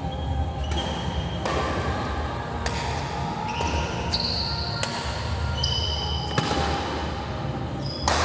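A badminton rally in a sports hall: sharp racket-on-shuttlecock hits about once a second, with short high squeaks from shoes on the court floor between them, over a steady low hall rumble.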